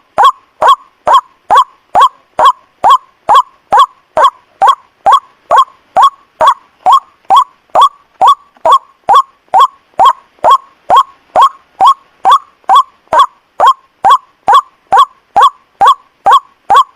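White-breasted waterhen (ruak-ruak) lure call: short, loud downward-sliding calls repeated at an even, unbroken pace of about two and a half a second. It is played as a bird lure to draw waterhens in at night.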